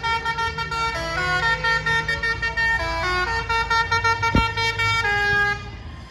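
A vehicle's musical horn playing a tune, in quick steady notes that step up and down in pitch and stop near the end, over the low rumble of an engine. A single sharp knock sounds a little past the middle.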